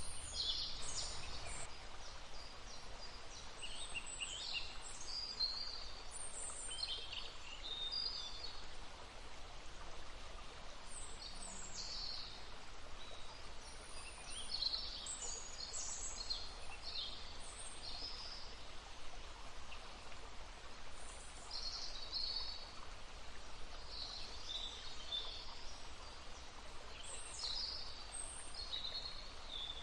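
Several songbirds chirping and trilling in quick high-pitched phrases over the steady rush of a babbling stream.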